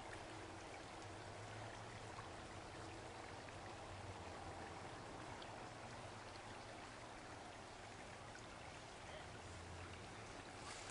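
Faint, steady rush of a small creek's water at a constructed rock V-weir pool.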